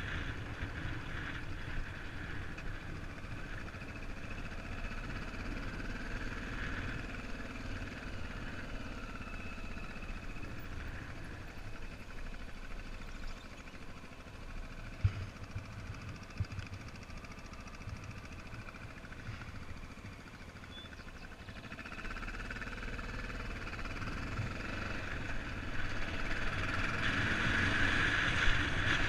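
Vehicle engine running steadily with motion noise, a couple of brief knocks about halfway through, growing louder in the last third.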